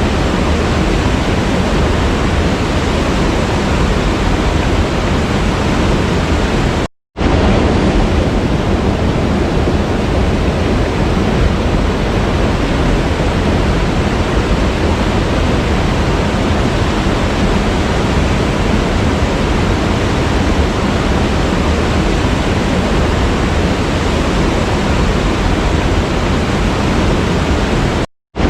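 Waterfall: a steady, loud rush of falling water, cutting out to silence for a split second about seven seconds in and again near the end.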